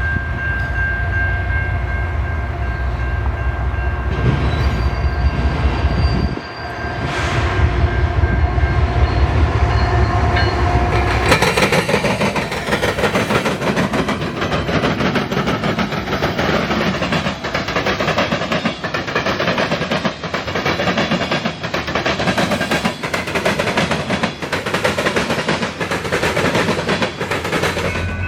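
A train passing. A low locomotive rumble is heard for about the first eleven seconds, then the cars roll by with continuous wheel clatter and clicks.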